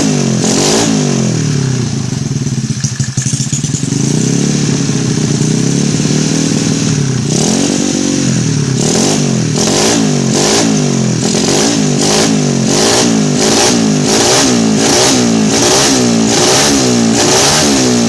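Single-cylinder engine of a Yamaha Mio scooter bored to 150cc, running through a CLD C7 racing exhaust, revved hard in repeated throttle blips. A few slower rises and falls of revs come in the middle, then quick blips about twice a second toward the end.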